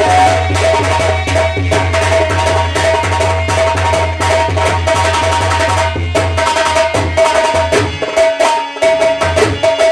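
Instrumental folk music: rapid hand-drum strokes over steady held melody notes. A low drone under it drops out about eight seconds in.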